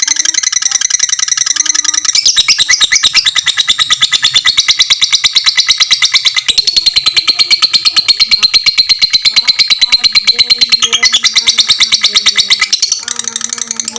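Lovebird singing a long 'ngekek': an unbroken, rapid chattering trill of high notes. It grows louder about two seconds in and eases about a second before the end.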